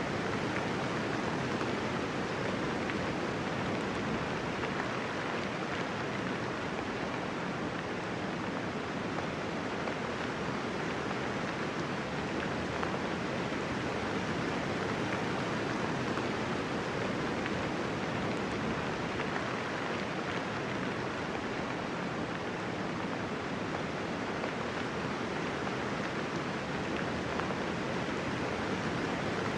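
Steady light rain falling: an even hiss of many raindrops with no thunder and no single drops standing out.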